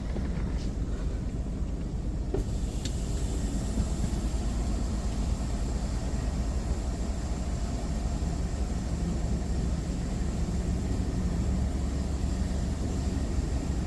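Steady low rumble of a car heard from inside the cabin, idling or creeping forward. About two seconds in there is a click, after which a steady hiss joins.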